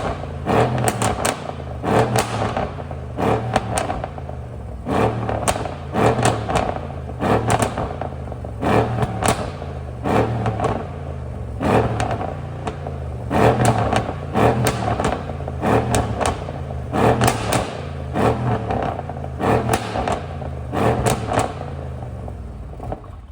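Mercedes-AMG S63 (W222) twin-turbo V8 revved over and over through its variable exhaust. Clusters of sharp pops and crackles come about once a second, from a stage 1 ECU pop-and-bang tune.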